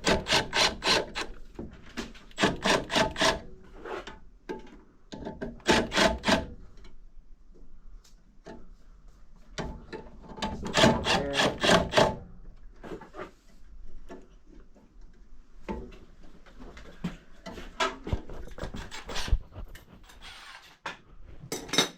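Rapid back-and-forth scraping or rasping strokes in several bursts of one to two seconds, about five strokes a second, with fainter scattered scrapes between the bursts.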